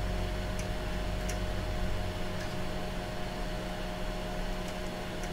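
Steady electrical hum and fan noise from bench test equipment, with a held tone over it and a few faint light clicks.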